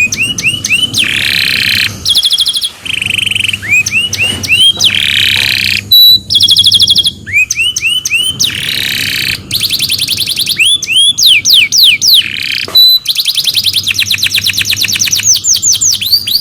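Canary singing a long, loud song of fast trills and runs of rising whistled notes, in phrases with short breaks between them. It is a bait song, played to set other canaries singing along.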